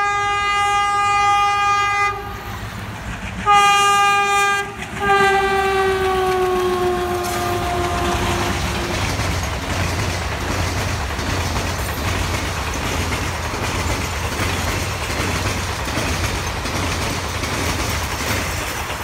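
Indian Railways passenger train: the locomotive horn sounds three blasts, the last one sliding down in pitch, then the coaches roll past with a steady rumble and clickety-clack of wheels on the rail joints.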